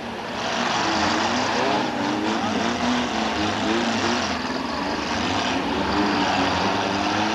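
Demolition derby cars' engines running and revving, their pitch rising and falling over a steady wash of noise.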